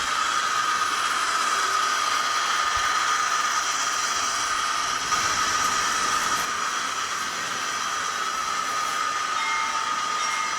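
The DCC sound decoder of a model NR class diesel locomotive playing a steady diesel engine running sound through the model's small speaker. It is an even hissy drone with a constant whine on top.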